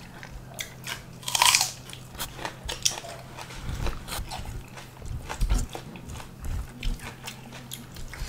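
People chewing and crunching food close to the microphone: wet mouth clicks and smacks, with a loud crunch about a second and a half in. A faint steady low hum runs underneath.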